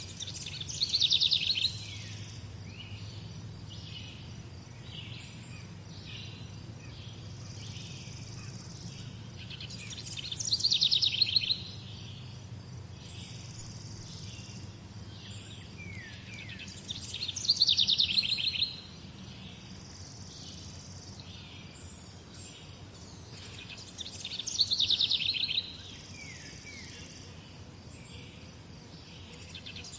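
Songbirds singing. One bird repeats a short, fast, falling phrase about every seven seconds, and softer short chirps from other birds fill the gaps. A low steady hum runs underneath.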